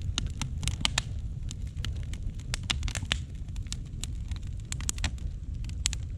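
Bonfire of rotten beehive wood crackling, with many irregular sharp snaps and pops over a steady low rumble.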